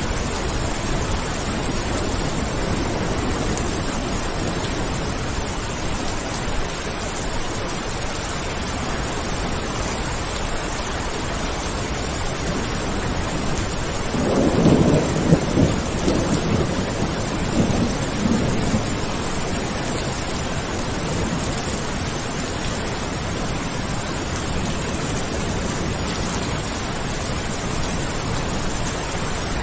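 Steady heavy rain with a roll of thunder rumbling about halfway through, loudest at its start and dying away over about five seconds.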